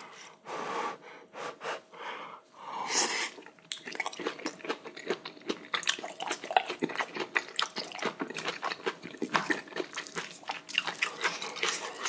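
Close-miked chewing of braised kimchi stem ends: a short breathy hiss about three seconds in, then a dense run of quick, wet, crunchy chewing clicks.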